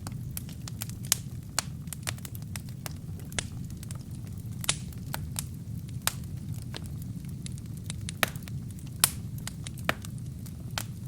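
Burning wood crackling in a fireplace: irregular sharp pops and snaps over a steady low rumble of the flames, with louder pops about a second in, near five seconds, and around eight and nine seconds.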